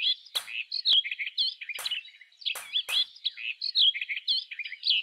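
A bird chirping rapidly in a continuous stream of quick, curling notes, with several sharp clicks among them.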